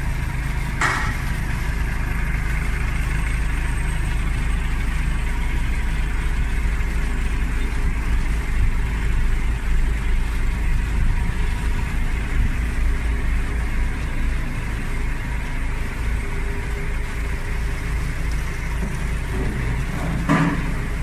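A vehicle engine idling steadily with a low rumble. A short sharp click comes about a second in, and another near the end.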